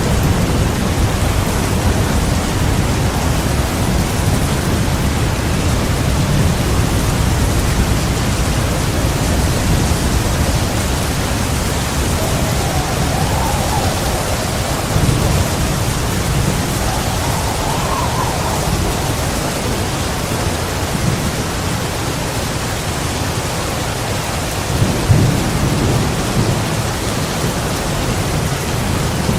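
Heavy rain pouring steadily under continuous rolling thunder, with a louder, sharper thunderclap about 25 seconds in.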